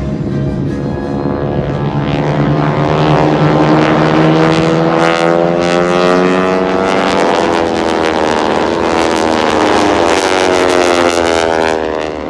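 Formation of North American T-6 Texans, the AeroShell Aerobatic Team, flying an aerobatic display. The engine and propeller drone rises and falls in pitch as the planes pass, with the rasping snap of propeller tips reaching the speed of sound.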